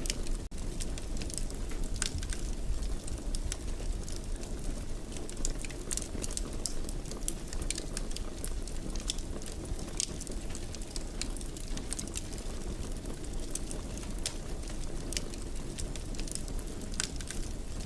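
Fireplace fire crackling, with frequent irregular pops and snaps over a low steady rumble of the flames. The sound briefly cuts out about half a second in.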